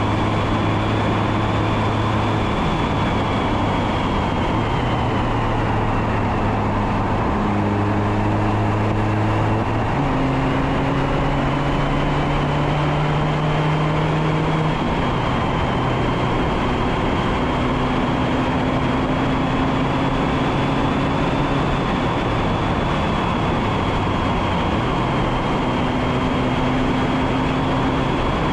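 Mazda MX-5 Miata ND2's four-cylinder engine under heavy wind noise on the microphone, its note holding steady and then jumping up or down in pitch several times as the car is driven hard through gears.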